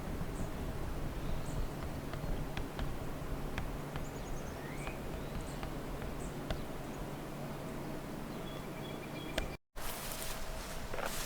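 Outdoor park ambience: faint scattered bird chirps and short whistled notes over a steady low rumble. A brief dropout to silence near the end, after which a louder hiss with a few soft knocks takes over.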